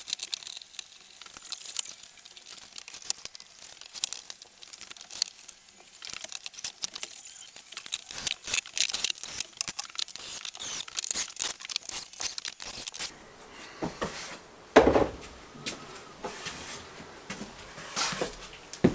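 Crinkling and tearing, like thin material being handled and pulled, made of many small quick clicks, for most of the first thirteen seconds. It then goes quieter, with a single louder knock about fifteen seconds in and a lighter one near the end.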